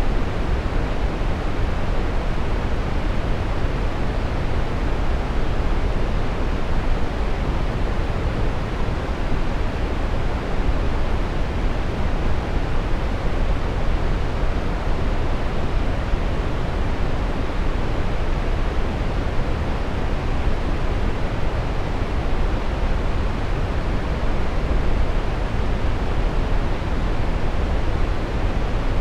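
Steady brown noise: an even, deep rushing hiss, strongest in the low end and falling off toward the top, with no change throughout.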